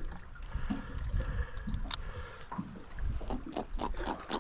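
Wind on the microphone and water lapping at a small boat, with irregular sharp knocks and taps as a freshly landed giant trevally is handled on board.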